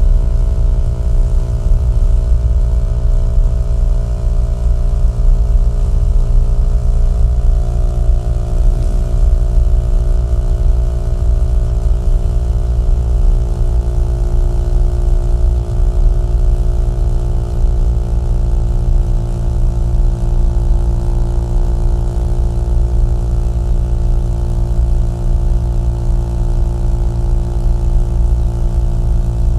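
Small-displacement motorcycle engine and exhaust running at a steady cruise, with the engine note dipping briefly about nine seconds in.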